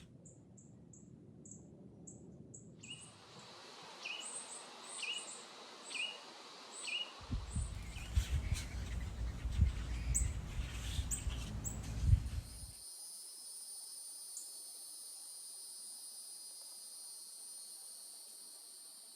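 Backyard birds chirping in short repeated notes, with a low rumble and a few sharp knocks in the middle, then a steady high-pitched drone of insects from about two-thirds of the way in.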